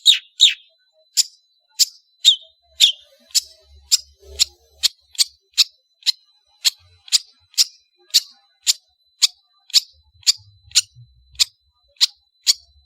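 Long-tailed shrike (cendet) calling a long, evenly spaced series of short, sharp downward-sweeping notes, about two a second.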